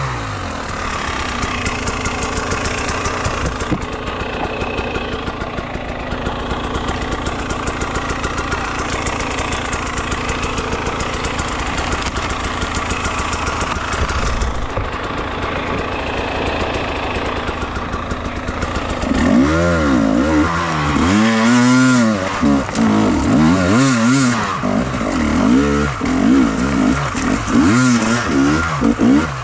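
Enduro motorcycle engine running at a fairly steady pitch, then from about two-thirds in revving up and down repeatedly as the throttle is worked.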